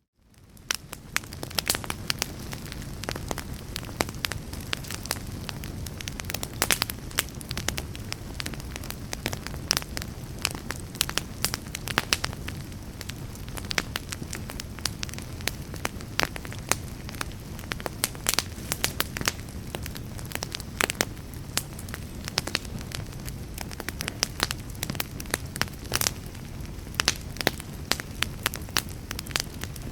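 Wood fire in a fireplace crackling, with frequent sharp pops over a steady low rumble. The sound fades in from a brief silence at the start.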